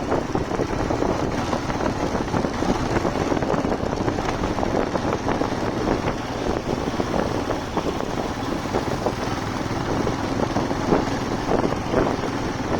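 Motorcycle riding along at steady speed, its engine and road noise mixed with wind buffeting the microphone.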